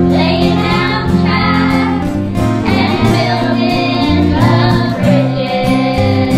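School choir of children's voices singing together over a steady instrumental accompaniment.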